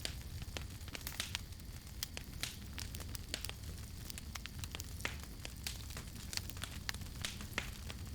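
Campfire burning with irregular sharp crackles and pops, several a second, over a steady low rumble of the flames.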